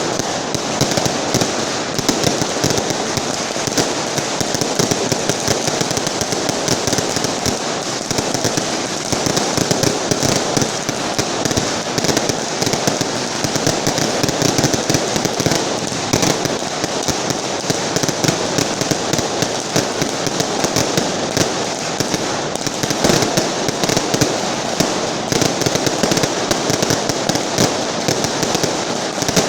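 A carpet of firecracker strings going off, a dense unbroken crackle of rapid bangs that keeps up without a pause.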